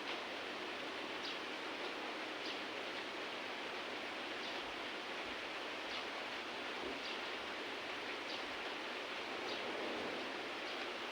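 Steady heavy rain falling, an even hiss, with faint short high-pitched sounds recurring roughly once a second.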